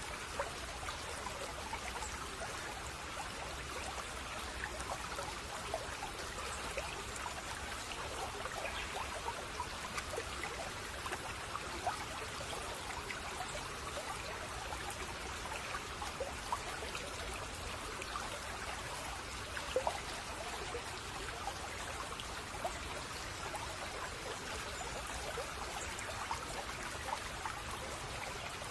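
A small brook babbling steadily, full of small trickling splashes.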